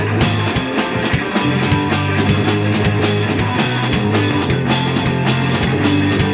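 Live punk rock band playing an instrumental passage: distorted electric guitar, bass and drum kit, with no vocals.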